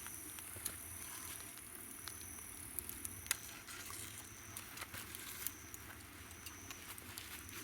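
Wood campfire crackling with scattered sharp pops, the loudest about three seconds in. Behind it, insects call: a short high chirp repeating about once a second, and a higher steady trill that fades out about three seconds in.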